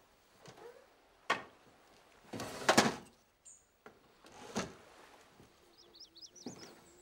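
A small bird chirps a quick run of high notes near the end. Before that comes a sharp knock about a second in, then a louder scraping rustle a little before the middle, the sound of someone moving around the room.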